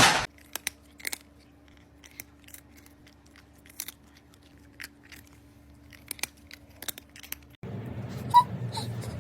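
Sparse, crisp crunching clicks like chewing, over a faint steady hum, after a sharp knock at the start. About seven and a half seconds in, the sound cuts to a louder, noisier background with two or three short high chirps.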